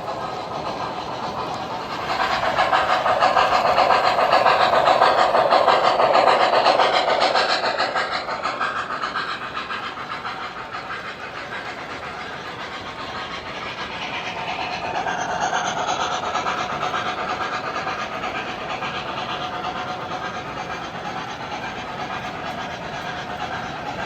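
O gauge model train running on its track, a steady rumble and wheel clatter. The sound swells loud about two seconds in and fades by about eight seconds, then swells again more gently around fifteen seconds, as the train passes close.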